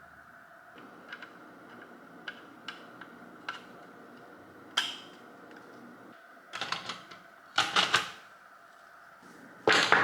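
Scattered sharp clicks and knocks over a faint steady hum, growing into louder clattering bursts in the second half, like hard objects being handled or set down.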